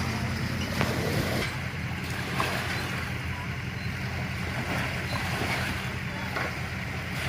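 Jet boat's V8 engine running steadily at low speed, a constant low rumble with water and wind noise over it.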